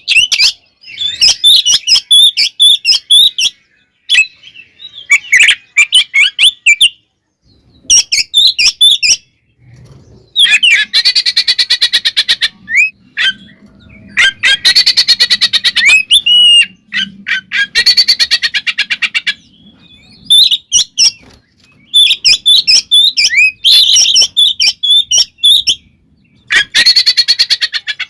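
Oriental magpie-robin (kacer) singing loudly in bursts. Varied high whistled phrases alternate with long runs of fast, rattling repeated notes, with short pauses between phrases.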